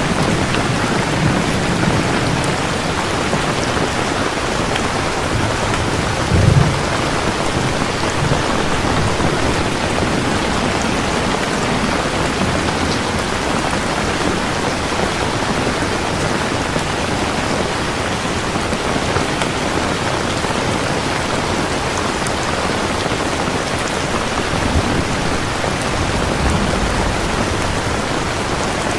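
Steady heavy rain falling, with low rumbles of thunder: one stronger rumble about six seconds in and more rolling thunder near the end.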